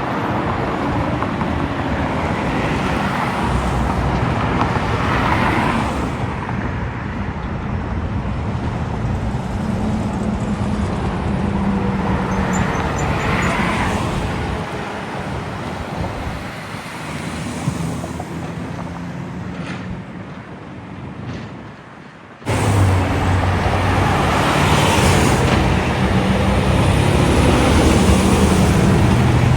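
Road traffic passing: trucks and cars driving by, with engine and tyre noise. The sound dips, then cuts back in louder about two-thirds of the way through, with a heavy engine running low.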